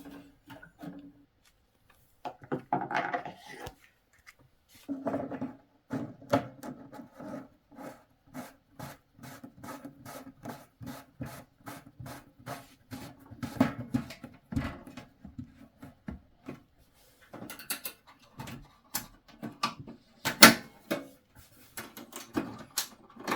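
Small motor whirring in bursts, with rapid, evenly spaced clicking and rubbing, then a few sharp knocks and clatters near the end.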